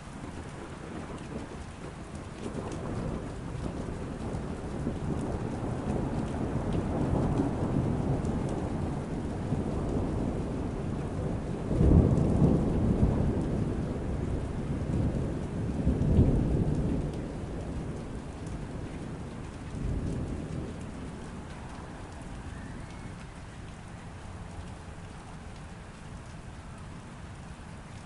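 Steady rain with a long roll of thunder heard behind a window. The rumble builds over several seconds, cracks loudest twice about four seconds apart, swells once more, then dies away, leaving the rain.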